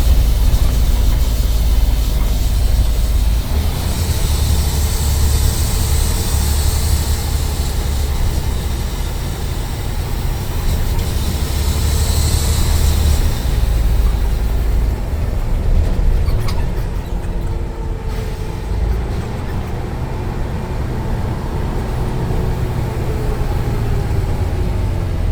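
Scania N94UD Omnidekka double-decker bus running, a deep engine rumble under a faint whine that rises and falls with speed, the 'Hoover' sound. Two stretches of hissing air, about four and twelve seconds in, fit an air leak.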